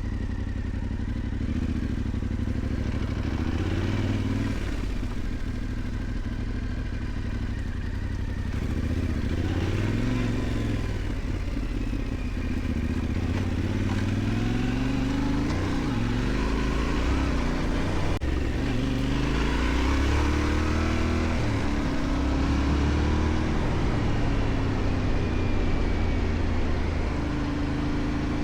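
Yamaha Ténéré 700's parallel-twin engine running as the motorcycle is ridden along a dirt track, its pitch rising and falling repeatedly with throttle and gear changes.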